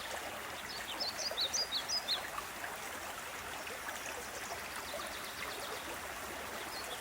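Mountain creek water rushing steadily at a small waterfall, with a songbird singing a quick run of high chirps about a second in.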